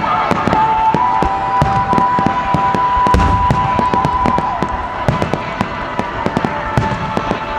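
Fireworks display: a dense run of crackling pops and bangs throughout, with a steady high held tone from about a second in until near the end.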